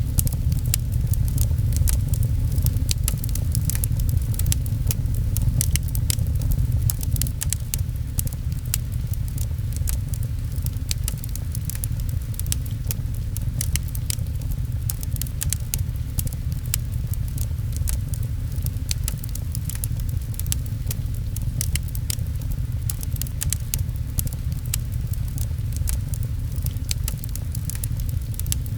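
Wood fire crackling with frequent sharp, irregular pops, over a steady low rumble and the even patter of rain on a window.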